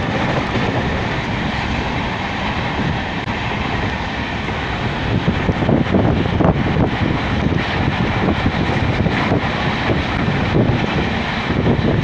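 Passenger express train running along the track, heard from on board: a steady rumble and rattle of the wheels and coaches, with sharper, irregular clatter from about halfway in.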